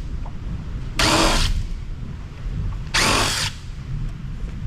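Cordless drill-driver spinning the amplifier's lid screws in short bursts of about half a second, twice, with a third burst starting at the very end. The screws turn without backing out, which suggests nuts holding them on the inside.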